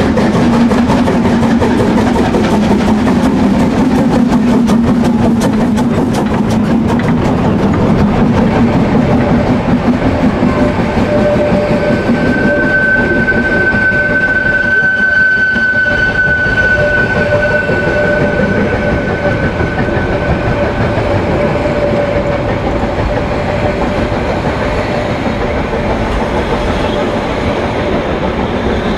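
Narrow-gauge steam train running on the Harzquerbahn, wheels clicking over the rails. Near the middle a steady high tone comes in and holds for about nine seconds, then drops away, while the train keeps running and slowly fades.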